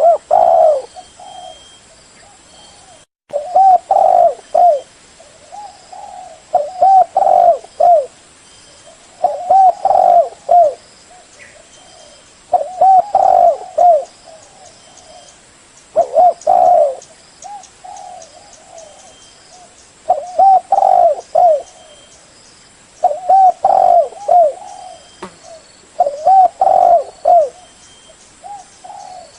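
Spotted dove cooing: loud, repeated phrases of several low coos, one phrase about every three seconds.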